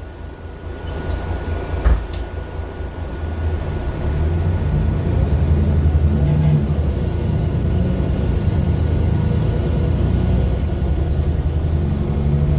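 Mercedes-Benz Citaro LE city bus's OM 457 hLA inline-six diesel, heard from inside the bus: a thump about two seconds in, then the engine note rises and grows louder as the bus pulls away, holding steady near the end.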